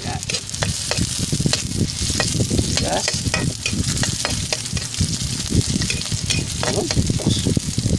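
Garlic, ginger and onion sizzling in hot oil in a wok, stirred with a metal spatula that scrapes and clicks irregularly against the pan.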